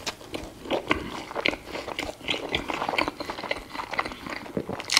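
A person biting into and chewing a double cheeseburger close to a clip-on microphone, with irregular small mouth clicks throughout.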